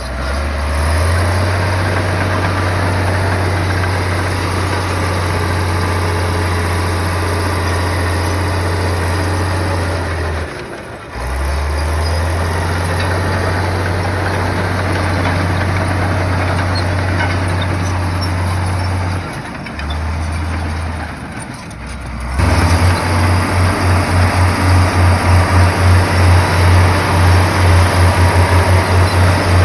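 Heavy earthmoving machine's diesel engine running steadily with a deep low hum, dipping briefly twice. About two-thirds of the way through the sound turns into a fast, even pulsing.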